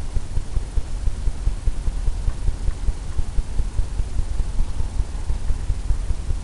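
Paint being worked onto a stretched canvas: a dense run of quick, dull low thumps as the canvas drums under the tool.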